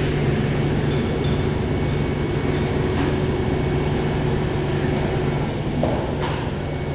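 Steady low mechanical hum with a thin steady whine above it, heard through glass. The hum eases slightly near the end.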